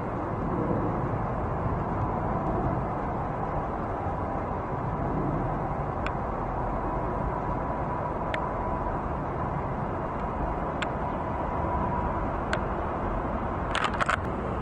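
Steady rumble of distant engine noise with a faint steady whine. There are a few single light clicks about two seconds apart, then a short rattle near the end.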